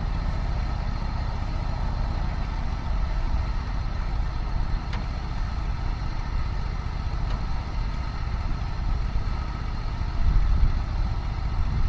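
Golf cart running along, a steady low rumble with a faint steady whine, ending in a sharp click.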